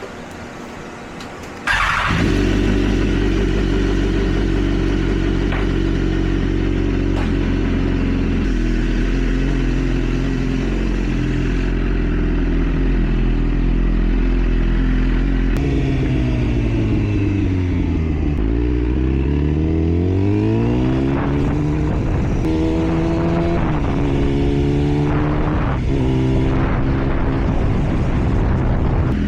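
BMW S1000RR's inline-four engine running under a ride: it comes in suddenly about two seconds in and holds a steady note, then about halfway its pitch falls and climbs again, and near the end it rises in several short steps as it accelerates.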